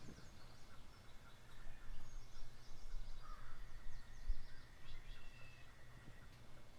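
Outdoor ambience: small birds chirping in short high notes, with a thin steady whistle-like tone for a few seconds in the middle, over a low steady background rumble.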